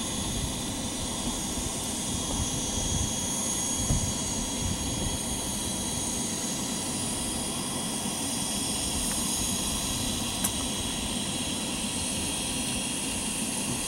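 Boeing 737-800's CFM56 jet engines running at low taxi power, a steady hiss with a thin, constant high whine over a low rumble.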